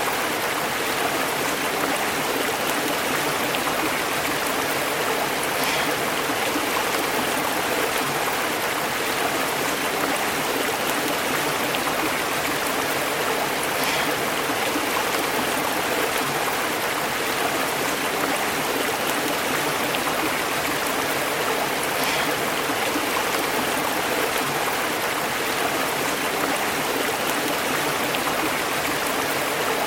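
A stream burbling steadily as it flows over rocks, a continuous rush of water with small splashes recurring about every eight seconds.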